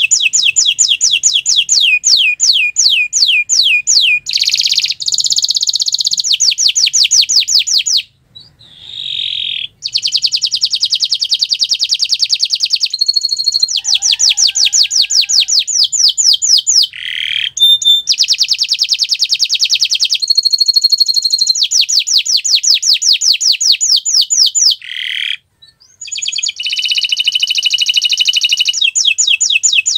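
Domestic canary singing: long, rolling trills of very rapid repeated notes, changing from phrase to phrase, with short breaks about eight and twenty-five seconds in.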